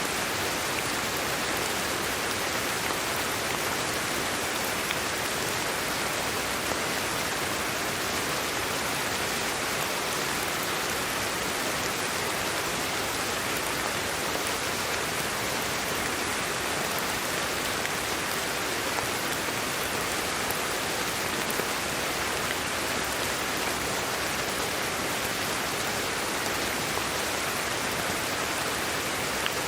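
Steady, unchanging sleep-aid noise: an even hiss like heavy rain.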